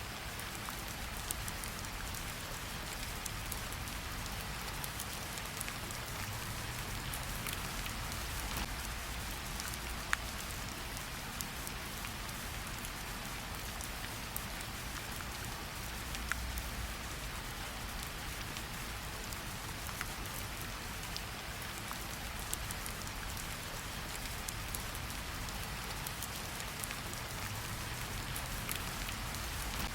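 Steady rainfall with scattered sharp drips landing close by, over a low rumble.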